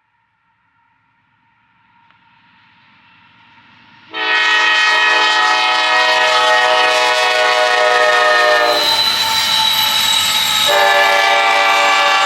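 Locomotive air horn blowing a chord, faint and slowly growing at first, then suddenly loud about four seconds in and held, its notes changing twice as the horn is played.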